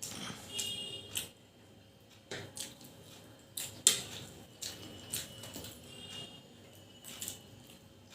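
Scattered light clicks and taps of a meal being eaten off plates, the sharpest about four seconds in.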